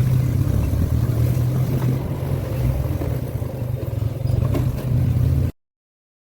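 Motorcycle engine running steadily while riding, with a low hum and some road and wind noise. It cuts off suddenly about five and a half seconds in.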